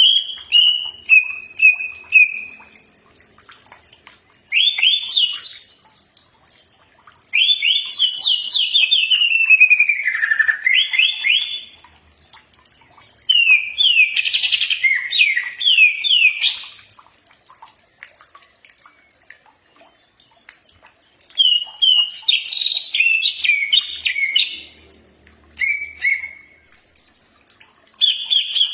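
Green leafbird (cucak ijo) song: about six bursts of fast, chattering phrases built from quick rising notes, separated by pauses of a few seconds.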